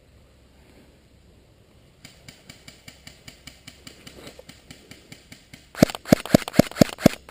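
Airsoft gunfire. Faint, regular shots from a distant electric airsoft gun start about two seconds in. Near the end a nearby electric airsoft gun fires loud rapid shots, about six or seven a second.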